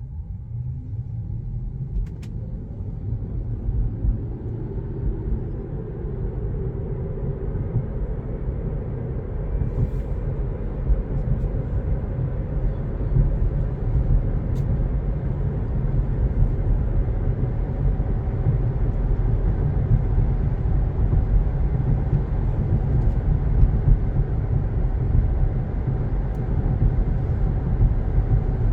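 Tesla electric car pulling away and gathering speed, heard from inside the cabin: low road and tyre rumble growing steadily louder, with a faint rising motor whine in the first few seconds.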